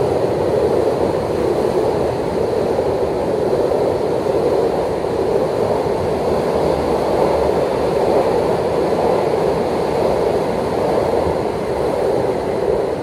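Container freight wagons of a diesel-hauled freight train rolling past, a steady rumble of steel wheels on rail that begins to fade near the end as the last wagon goes by.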